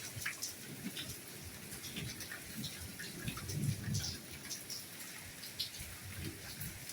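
Soft rain falling: a steady hiss with many separate drops and drips heard distinctly over it. Soft low swells rise and fall underneath.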